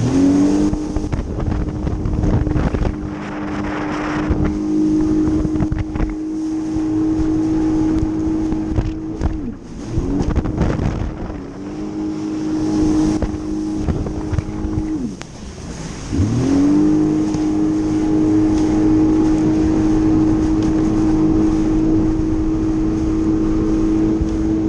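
Jet ski engine running at a steady high speed. It eases off twice, about nine and fifteen seconds in, and each time speeds back up to its cruising pitch.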